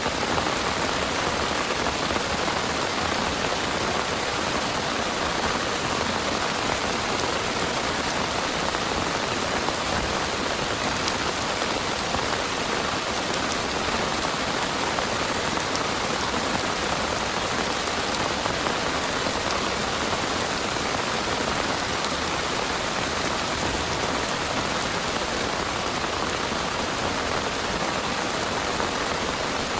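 Heavy rain pouring steadily, with a dense even hiss and scattered drop ticks.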